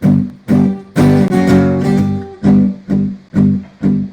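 Solo acoustic strummed chords in a steady rhythm of about two strums a second, with one longer ringing chord about a second in. This is the instrumental intro before the vocals come in.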